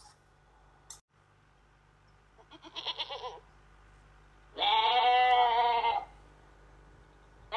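A farm animal bleating twice: a short, wavering bleat, then a louder one lasting about a second and a half.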